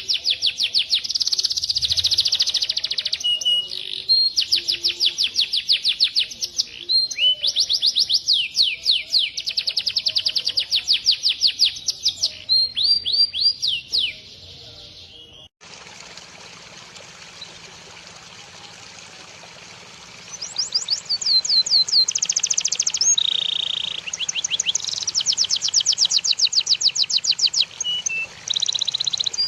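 Songbird singing fast, high runs of quickly repeated sweeping notes. The song breaks off suddenly about halfway through, leaving a steady hiss for about five seconds before the singing starts again.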